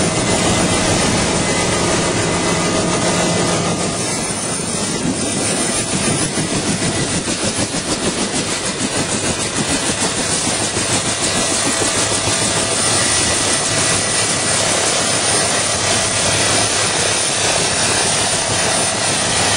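UH-1H Huey helicopter running, its turbine and rotor making a steady loud noise. After about four seconds a rapid pulsing beat from the rotor blades becomes plain.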